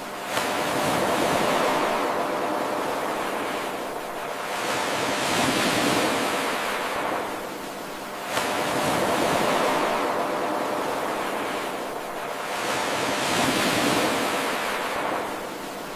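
Ocean surf washing in and drawing back, swelling and fading about every four seconds. It is an 8-second loop, and the level steps up abruptly each time it restarts, about half a second in and again near the middle.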